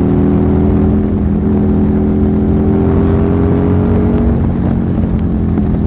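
Buell Lightning XB12S's air-cooled V-twin, fitted with a D&D aftermarket exhaust, pulling hard at wide-open throttle with wind rush, its pitch rising steadily as the bike accelerates. About four seconds in the pitch stops rising and holds level.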